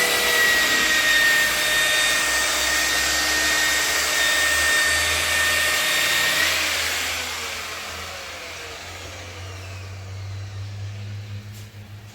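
Electric car polisher (buffer) running steadily with a high whine while polishing fresh paint, then switched off about six and a half seconds in and winding down with a falling pitch.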